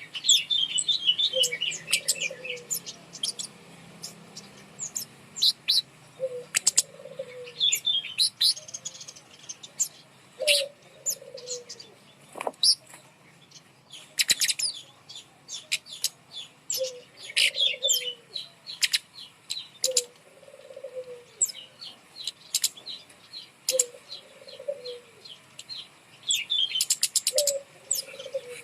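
Kemade songbird singing a rapid string of sharp high chips and short twittering trills. A short lower call comes in every few seconds.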